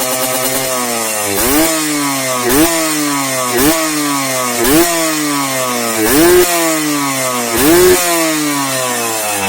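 Yamaha RXZ two-stroke single-cylinder engine revved through an aftermarket racing exhaust: about six quick throttle blips, each jumping up in pitch and falling slowly back toward idle. The exhaust tone is crisp and ringing.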